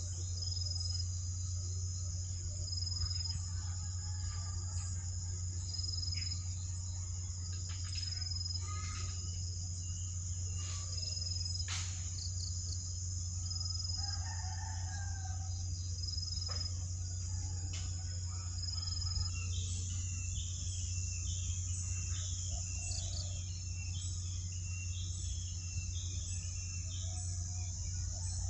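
Rural ambience: a rooster crowing now and then, and a steady high insect drone over a steady low hum. From about two-thirds of the way through, a bird gives a run of short chirps, about two a second.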